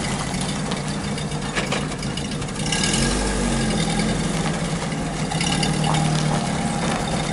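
UAZ Hunter's engine idling steadily with a low hum.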